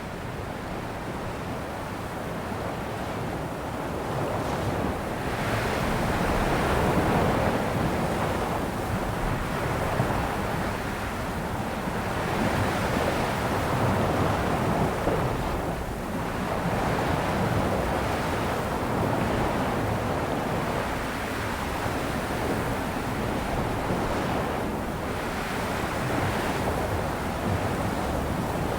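Sea waves surging and washing in a continuous rush of water, each swell rising and falling back every five or six seconds.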